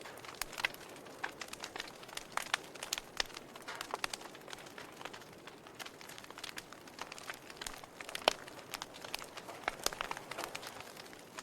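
Wood fire crackling in a fireplace: irregular snaps and pops over a soft hiss, with one sharper pop about two-thirds of the way through.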